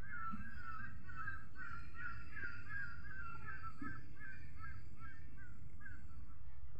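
A bird calling a quick series of short, wavering repeated notes, about three a second, that fade out after about five seconds.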